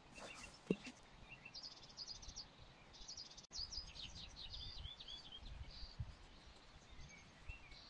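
A small songbird singing faintly: a quick trill followed by a run of short, falling high chirps, over a low background rumble.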